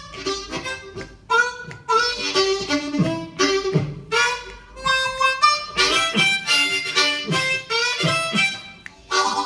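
Blues harmonica playing a solo in short phrases of quick notes over a live band; a held chord comes in near the end.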